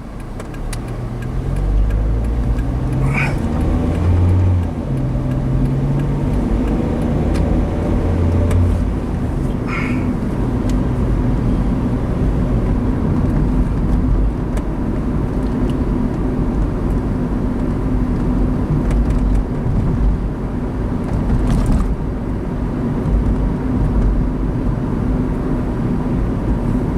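Car engine and road noise heard from inside the cabin while driving. Over the first several seconds the engine note steps up and down as the car pulls away through the gears, then settles into a steady cruising drone.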